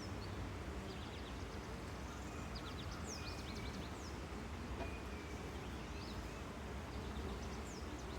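Steady faint hum of honey bees around an opened hive, with short bird chirps in the background.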